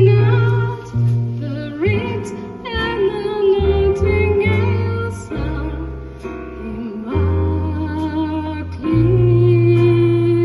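Female singer with a jazz ensemble performing a slow ballad: long held sung notes with vibrato over bass and band accompaniment.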